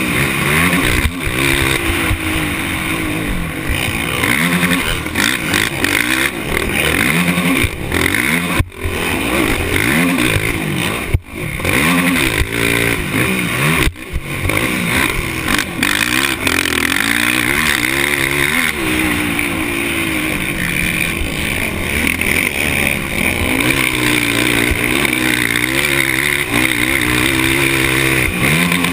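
Off-road racing engine heard close up, revving hard and easing off again and again, its pitch rising and falling as it accelerates and shifts. There are three brief drops in the sound in the middle.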